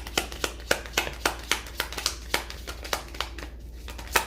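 A small deck of Lenormand cards being shuffled by hand: a quick run of sharp card slaps and clicks, about four a second. It eases off near the end, then one loud click.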